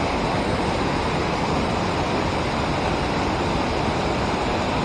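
Steady rush of fast-flowing river water below a dam.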